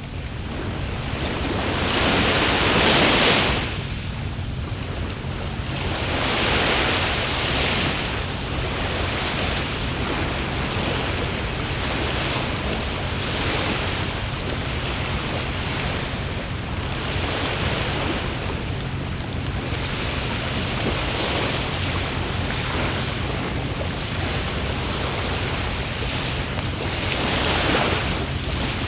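A bonfire burning in a Coleman Fire Disc, giving a steady rushing hiss that swells and fades every few seconds, over a constant thin high-pitched tone.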